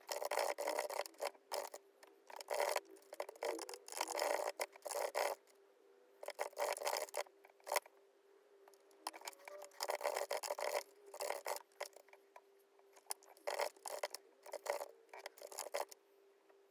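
Irregular bursts of rustling and scraping from things being handled at a desk, some short and some lasting about a second, with pauses between, over a faint steady hum.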